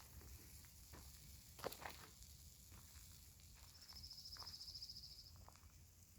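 Quiet outdoor ambience with a faint low rumble. A high, rapid trill comes about four seconds in and lasts a second and a half. A single soft rustle or knock comes near two seconds in.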